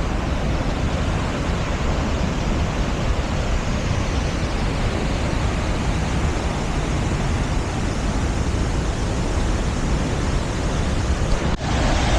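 Steady roar of a large monsoon-fed waterfall, a continuous loud rush of falling water. It drops out for an instant about eleven and a half seconds in, then resumes.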